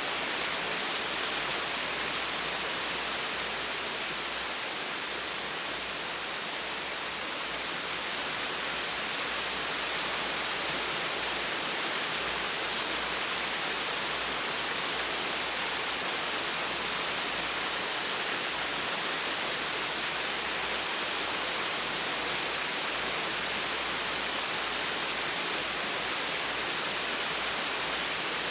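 Small waterfall splashing steadily in a continuous, even rush of falling water.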